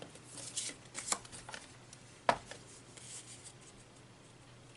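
Cardstock being cut and handled: a few short, faint cutting and rustling strokes, then a single sharp click.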